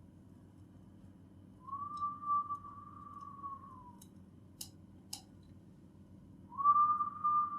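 Long, steady whistled notes, used to call in the spirits: one held about two seconds and tailing off slightly, then a second beginning near the end. A couple of sharp clicks fall between them.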